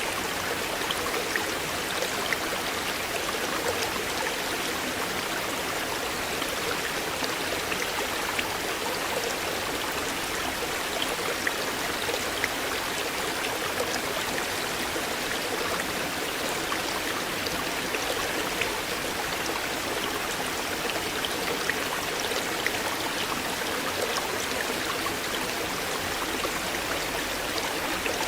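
River water flowing steadily: an even rush of moving water with many small splashing ticks through it.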